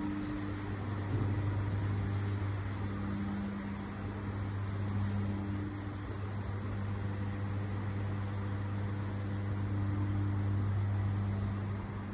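Electric pumps running in a mechanical plant room: a steady low hum over a machine whir, with a higher hum that fades in and out every few seconds.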